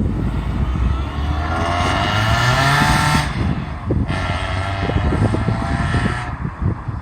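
BMW E30's M42 four-cylinder engine pulling up through the revs twice. The pitch climbs for about three seconds, breaks off, then starts lower and climbs again, as when accelerating through a gear change, over a steady rumble of road and wind noise.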